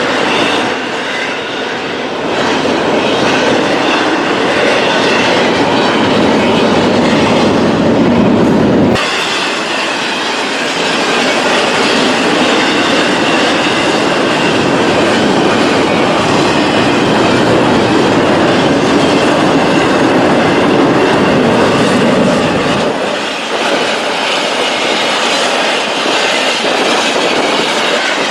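Railroad cars rolling past at close range: a loud, continuous rumble and clatter of steel wheels on the rails. The low rumble drops away abruptly about a third of the way in and again near the end.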